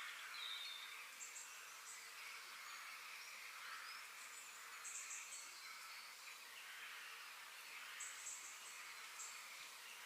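Faint park nature ambience: a steady outdoor hiss with short, very high chirps every few seconds from small wild creatures.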